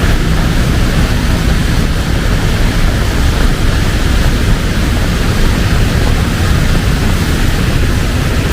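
Heavy rain pouring steadily: a loud, even hiss with a deep rumble underneath.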